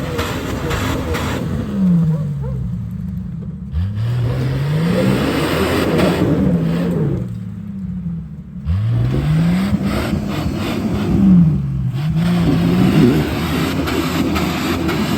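Jeep Cherokee XJ engine revved hard again and again: the pitch climbs quickly, holds briefly at the top where it meets the rev limiter, then falls back. It does this about three times.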